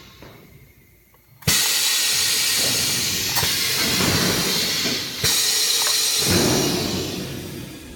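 Compressed air hissing out of a pneumatic sheet-metal folding brake as it is reset: a sudden loud hiss starts about a second and a half in, a second burst of air follows about five seconds in, and it fades away near the end.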